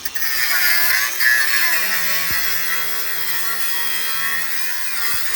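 Angle grinder cutting into the sheet steel of a car body shell, running steadily with its pitch wavering as it bites.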